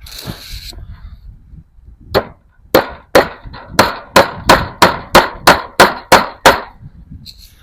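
Hammer driving fence staples: about a dozen sharp strikes, roughly three a second, starting about two seconds in after a brief rustle.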